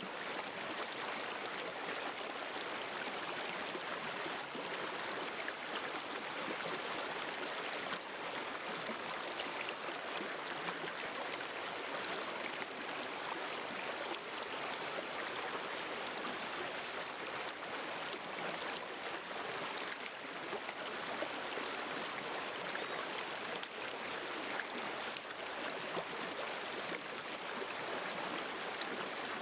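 River water flowing over rocks in a steady, even rush, with fine splashing and no change in level.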